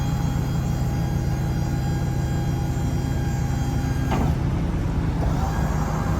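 A PACCAR PX-7 diesel engine idling steadily, with a sudden burst of hiss about four seconds in that lasts about a second.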